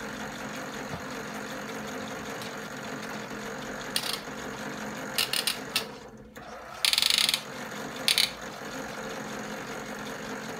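Small electric motor of a Europlay Tide Juniors Home toy washing machine running steadily during its wash cycle. Midway the hum briefly drops, and several short clattering bursts of its gear mechanism follow; the loudest, a rapid ratcheting rattle about half a second long, comes about seven seconds in.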